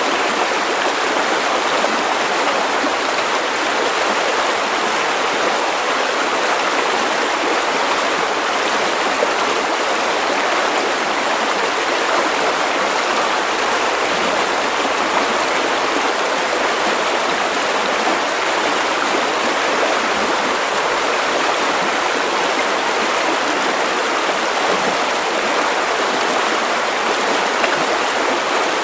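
River water running steadily over stones, a continuous even rush of flowing water.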